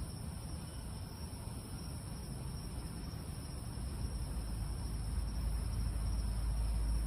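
A steady, high-pitched chorus of night insects. A low rumble swells beneath it from about four seconds in.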